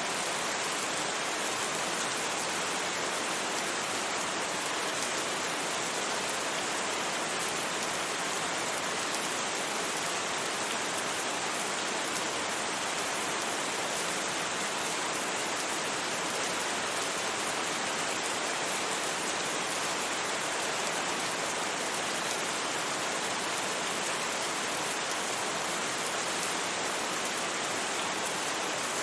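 Steady rain, an even hiss without thunder or separate drops standing out.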